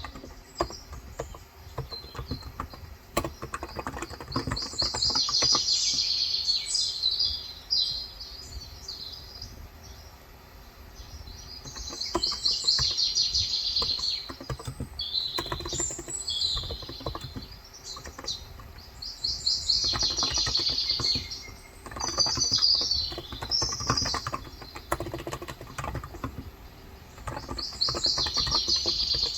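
Birds chirping in bouts that come every few seconds, over steady typing on a Cox Endeavour tenkeyless electrostatic-capacitive keyboard with light 35 g switches.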